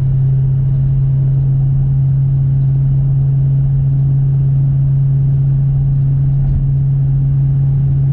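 Supercharged 6.2-litre V8 of a 2019 Corvette C7 Z06 running at a steady engine speed: a constant low drone that neither rises nor falls.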